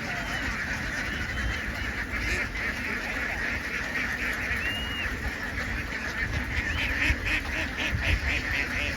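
A large flock of domestic ducks calling all at once, a dense unbroken chorus of overlapping quacks, with a low rumble underneath.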